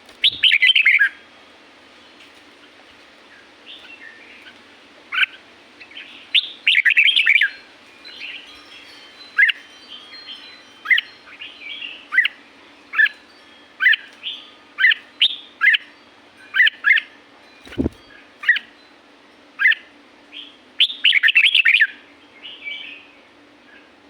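Red-whiskered bulbul singing: short, bright chirping notes repeated every second or so, with a few denser, louder warbled phrases between them. A single low thump about three-quarters of the way through.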